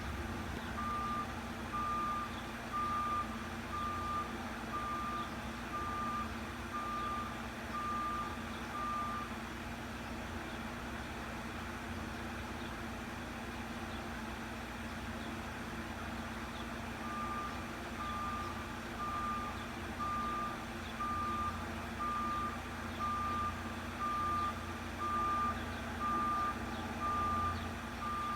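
Front-loader garbage truck's reversing alarm beeping about once a second over its running engine. The beeping stops for several seconds near the middle, then starts again and keeps on.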